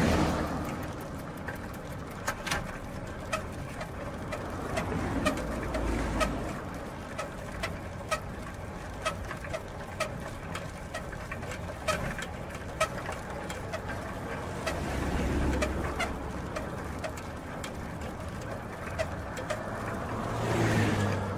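Bicycle mechanism ticking and clicking, with a faint rhythmic tick and sharp irregular clicks, as from a spinning wheel and chain. Three low swelling sounds rise and fade, one near the start, one in the middle and one near the end.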